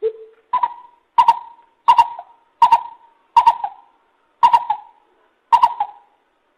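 Lesser coucal calling: one deep hoot, then a run of seven higher, clipped notes about two-thirds of a second apart, each broken into two or three quick pulses.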